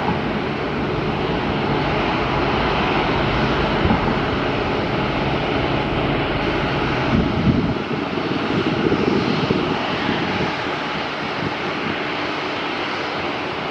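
Boeing 787-9 jet engines running at low taxi thrust, a steady rumble and hiss. Wind buffets the microphone briefly a little before the middle.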